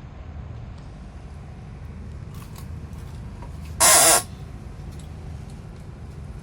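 Steady low rumble of a diesel multiple unit train idling, powered by MTU 12V 4000 diesel engines, with a few faint clicks and one short, loud hiss about four seconds in.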